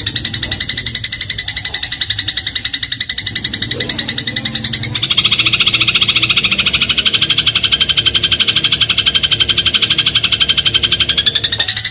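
Eurasian tree sparrow's fast rattling trill of the 'gereja crot' type, about ten even pulses a second. The pitch shifts about five seconds in and rises slightly near the end.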